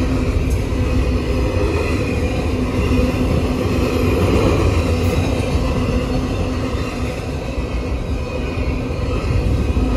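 Union Pacific train rolling by: a steady, loud rumble with a low hum running through it.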